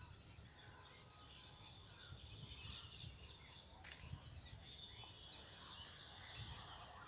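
Faint chirps and short whistled calls of rose-ringed parakeets, over a low rumble.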